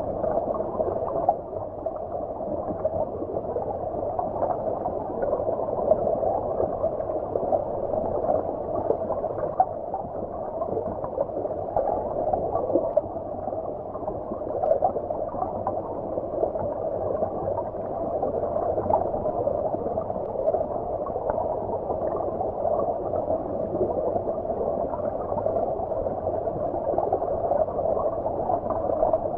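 Stream water heard from under the surface: a steady, muffled rush of flowing water, with its sound held in the low-mid range and no bright splash or hiss on top.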